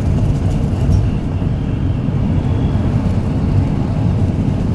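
Steady low rumble of a car driving, heard from inside the cabin with a window open.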